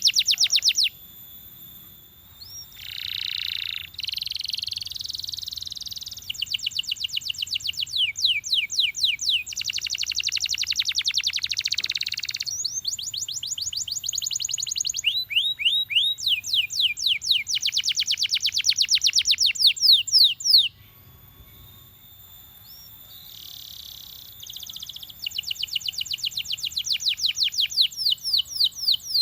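Belgian canary singing: long rolling trills of fast falling whistled notes repeated many times a second, with a short break about a second in and another about two thirds of the way through.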